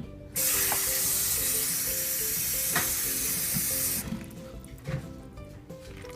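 Kitchen tap running at full flow to rinse blueberries, turned on about half a second in and shut off about four seconds in, with a few light knocks under it.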